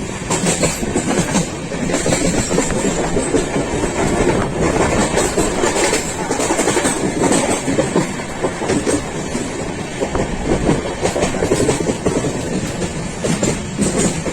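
Passenger train running along the track: a steady rumble with the wheels clacking irregularly over rail joints.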